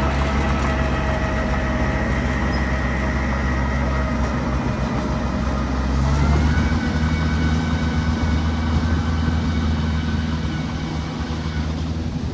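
Heavy machine engine running steadily. Its pitch steps up about six seconds in and holds at the higher speed.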